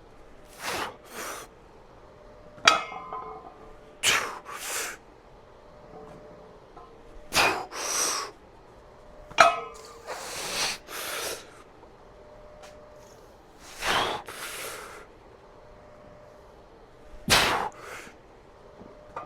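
Forceful breaths through the mouth, in pairs, about every three to four seconds, paced with barbell Romanian deadlift reps. Two sharp metallic clinks of the loaded bar and plates come about three seconds and nine seconds in.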